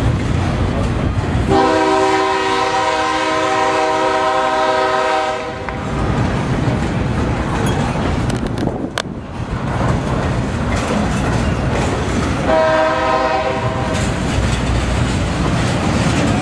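Double-stack intermodal freight train's well cars rolling past with a steady low rumble and rail noise. A train horn sounds two blasts over it: a long one starting about a second and a half in and lasting about four seconds, and a shorter one about twelve and a half seconds in. A single sharp knock comes about nine seconds in.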